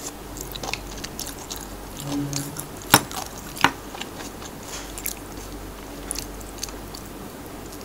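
Close-miked chewing with many small wet mouth clicks. About three seconds in come two sharp knocks, as chopsticks are set down on a wooden board.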